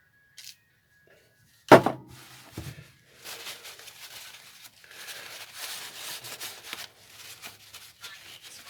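A sharp knock, then long rubbing strokes as a metal part of the engine is scrubbed clean.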